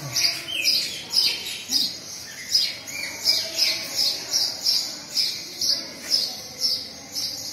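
Birds chirping over and over: short high chirps at about two to three a second, with a few lower falling calls mixed in.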